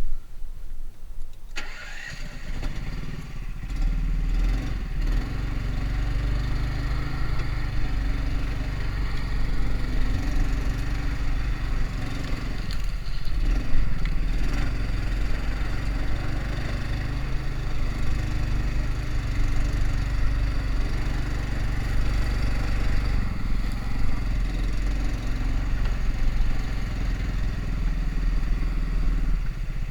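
Small engine of a homemade karakat all-terrain vehicle catching about a second and a half in, then running steadily.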